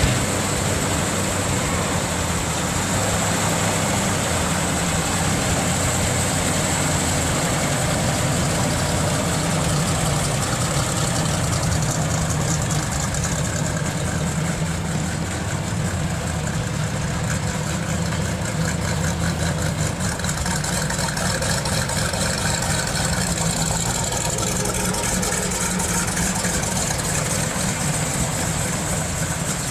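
Plymouth AAR Cuda's 340 small-block V8 idling steadily.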